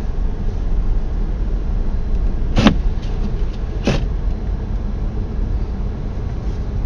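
Steady low engine and road rumble inside a car driving on snow-covered roads. Two sharp clicks come about two and a half and four seconds in.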